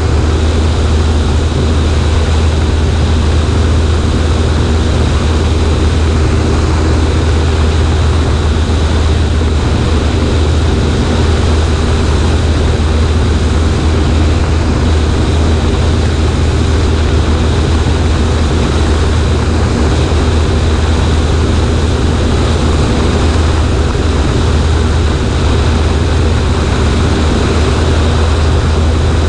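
Light single-engine propeller airplane's engine and propeller, a Cessna 140A, running at a steady setting in a loud, unchanging drone with a strong low hum, heard from the aircraft's right wing with a haze of wind noise.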